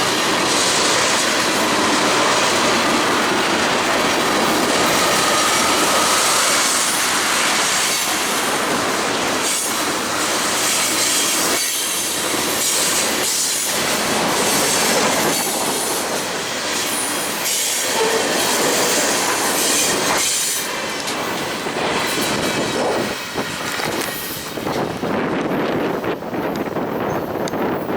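Freight cars of a Norfolk Southern manifest train rolling past, steel wheels clacking irregularly over the rail joints. The noise thins out near the end as the train passes.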